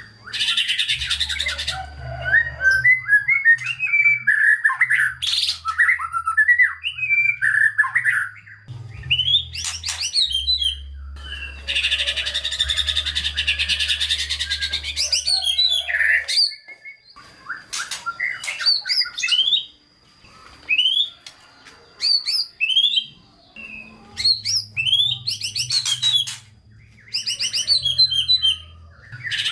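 White-rumped shama (murai batu) singing a varied song: harsh dense rattles, including a long one about halfway through, quick warbled phrases, and sharp rising whistled notes separated by short pauses.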